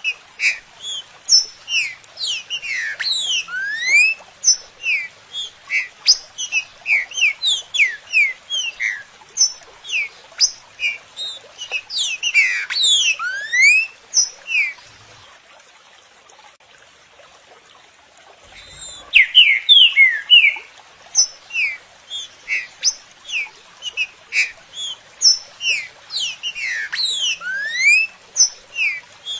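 Green-winged saltator (trinca-ferro) song: a rapid run of short, sharp whistled notes and rising and falling glides. It breaks off for about four seconds midway, then resumes.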